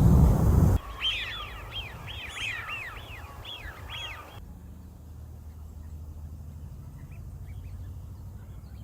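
Wild birds calling: a rapid run of short, sweeping chirps for about three seconds, then a few faint calls near the end. Wind rumble on the microphone is heard in the first second.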